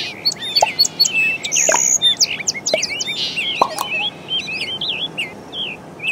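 Small birds chirping, many quick high calls overlapping, growing a little sparser and quieter toward the end.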